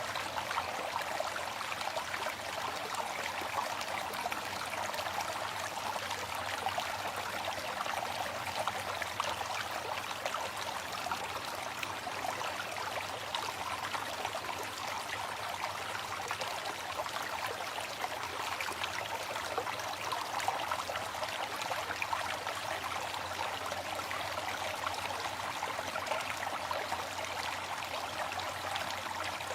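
Waterfall: water falling and splashing in a steady, unbroken rush, with most of its sound in the middle and upper range and little deep rumble.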